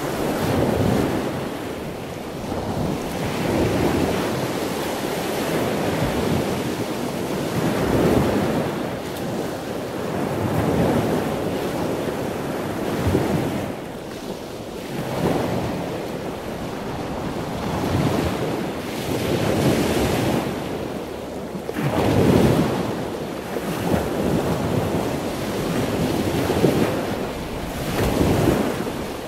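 Ocean surf: waves washing up and falling back, swelling and fading every two to three seconds.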